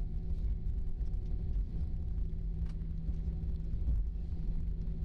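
Airliner cabin noise while taxiing after landing: a steady low rumble of engines and airframe with a constant hum, and a couple of faint rattles.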